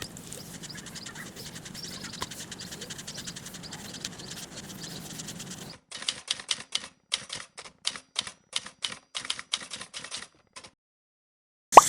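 A quick, uneven run of sharp clicks, about three or four a second, typewriter-like, that stops abruptly after about five seconds. It comes after several seconds of faint ticking background.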